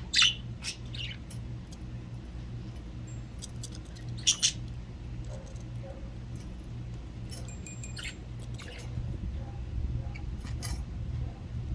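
Budgerigars giving short, sharp chirps and squawks, loudest about a quarter second in and about four seconds in, with scattered fainter calls after, over a steady low hum.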